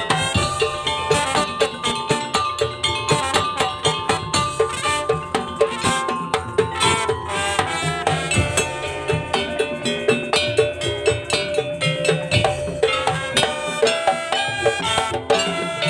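Madurese daul (tongtong) percussion band playing: a steady, dense beat of drums, bells and wooden blocks under a held melody line.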